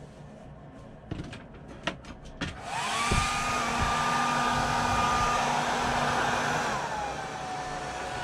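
A few sharp clicks, then a handheld hair dryer switches on. Its motor whines up to a steady pitch under a loud rush of air as it dries a cat's wet fur after a bath. About seven seconds in, its pitch and loudness drop.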